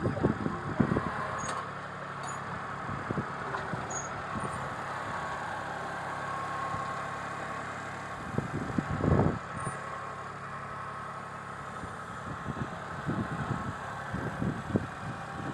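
Tractor engine running steadily, with louder low rumbles at the start, about nine seconds in, and again near the end.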